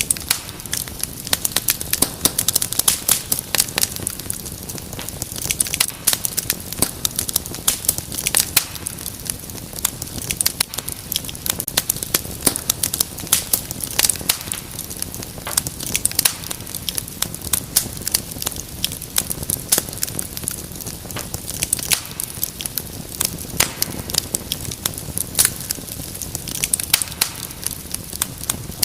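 Wood fire crackling and popping steadily, with dense irregular sharp snaps over a low steady hiss.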